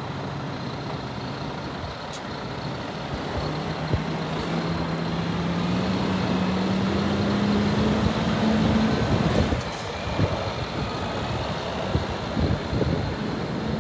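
Scania R480 tipper truck's diesel engine running, its pitch climbing slowly for several seconds before falling away about nine seconds in, with scattered knocks and rattles after.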